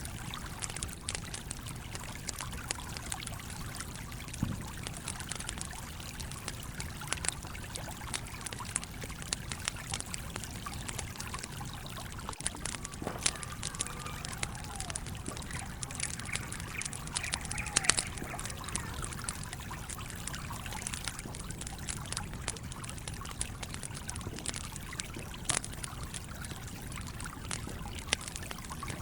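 A stream flowing steadily, with a campfire crackling over it: irregular sharp pops, the loudest about halfway through.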